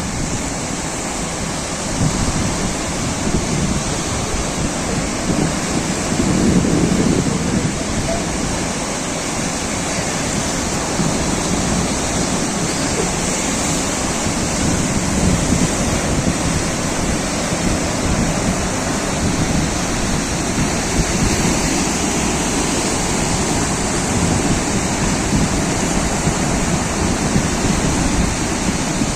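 Sea waves washing in, a steady rushing of surf with a few louder swells in the first several seconds.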